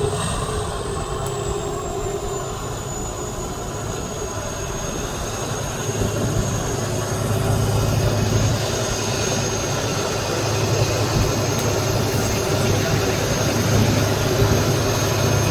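Competition trial truck's diesel engine running, with a steady high whine over a low rumble that grows louder about six seconds in.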